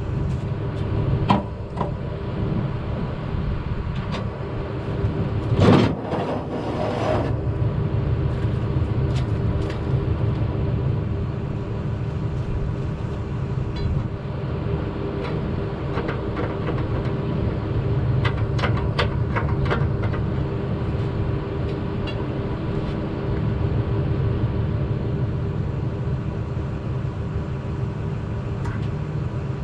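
A vehicle engine running steadily with a low rumble and a steady hum, with scattered clicks and rattles and a louder rushing swell about six seconds in.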